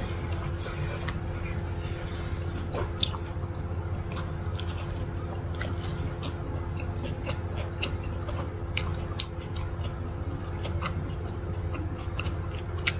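Close-up biting and chewing of a soft burger with egg inside, with scattered wet mouth clicks over a steady low hum.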